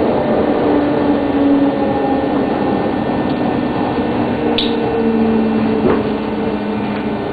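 Inside a JR Osaka Loop Line commuter train car: a steady rumble with several level humming tones, and a short high squeak about four and a half seconds in.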